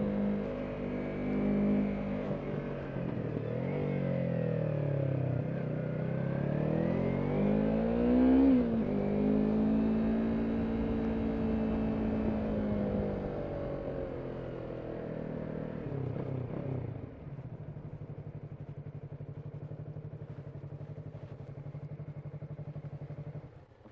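Yamaha MT-03 motorcycle's parallel-twin engine running: the revs fall and rise again early on, then hold steady. About 17 s in it drops to a steady idle, and it stops suddenly near the end.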